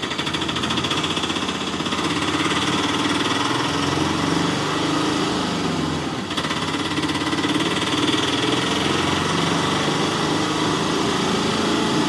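A small motor running steadily with a fast, rattling buzz, dipping briefly about six seconds in.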